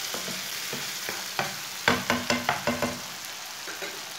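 Onion, tomato and green chilli masala sizzling steadily in oil in a frying pan. A spatula stirs it, scraping and knocking against the pan in a quick run of strokes from about a second and a half in.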